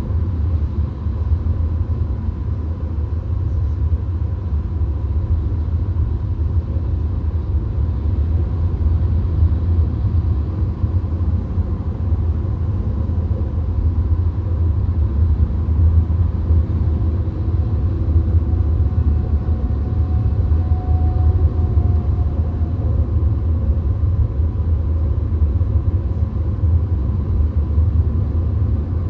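VW Golf cruising on a motorway, heard from inside the car: a steady low rumble of road and engine noise that holds level throughout.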